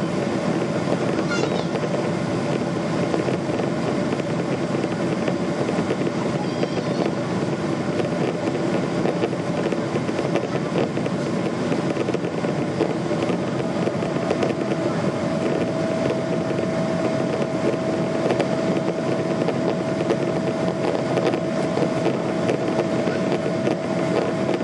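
Steady drone of a Boeing 777-200 and its jet engines in the climb after takeoff, with a constant hum and a higher steady tone that comes in about halfway through.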